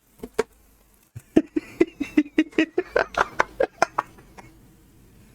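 Snack packaging being handled and crinkled: a quick run of sharp crackles and clicks that starts about a second in and dies away near the end.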